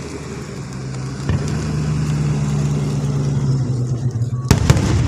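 A vehicle engine running with a steady low hum that sets in about a second in, and two sharp bangs close together near the end.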